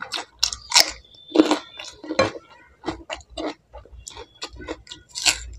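A person biting and chewing crunchy raw fruit slices: an irregular run of crunches, several a second.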